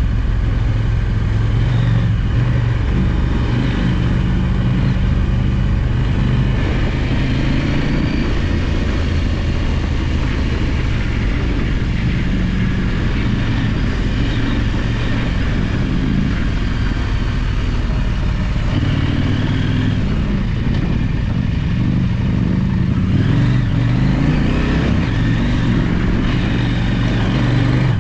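Adventure motorcycle engine running as the bike is ridden on a dirt trail, its pitch rising and falling with the throttle and gears.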